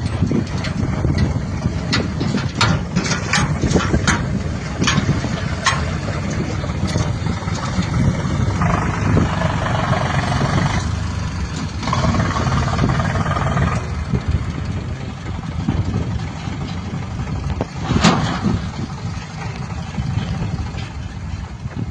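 Diesel engine of a JCB backhoe loader running steadily while it works. A series of sharp knocks comes in the first few seconds, and a louder single knock comes near the end.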